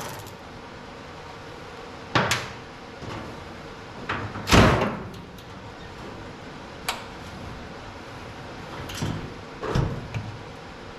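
Scattered metal clanks and knocks, loudest about four and a half seconds in with a short ring, from wrenches and bolts being handled while the hood hinge bolts come out of an old pickup.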